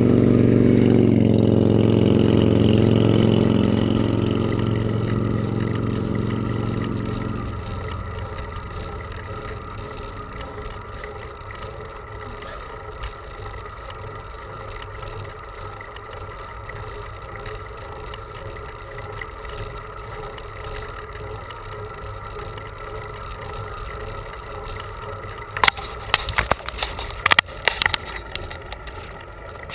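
A motor vehicle passes close by and its engine fades away over the first several seconds, leaving a steady rushing noise. A cluster of sharp clicks comes near the end.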